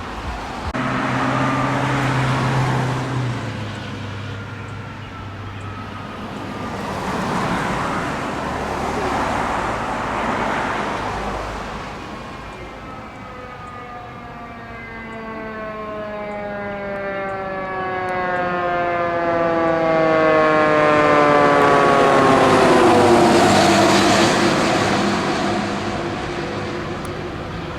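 Traffic passes in the first half. Then a fire apparatus siren sounds as one long wail falling slowly in pitch, growing loudest near the end as the truck goes by.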